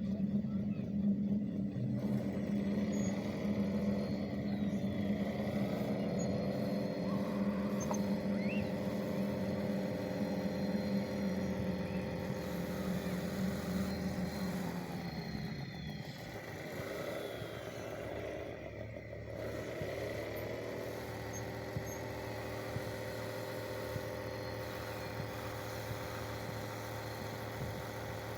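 A motor running steadily, its pitch climbing early on, then dipping and rising again twice in the middle before settling, over a faint steady high whine.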